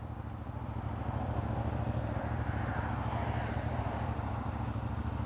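Wind rushing over a Cardo helmet-intercom microphone on a moving motorcycle, with the CFMoto 450MT's parallel-twin engine running steadily underneath as a low rumble, picked up over a Bluetooth link. The noise grows slowly louder over the few seconds.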